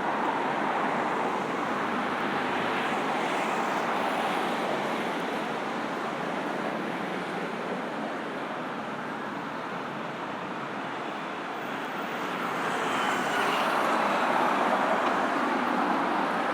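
Steady road traffic: cars passing on a busy road with continuous tyre and engine noise, growing louder as a vehicle passes close about twelve seconds in.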